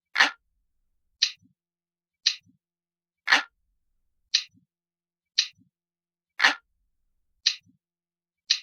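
Looped analog clock ticking, about one tick a second, nine ticks in all. Every third tick sounds fuller and deeper than the two lighter, higher ticks between.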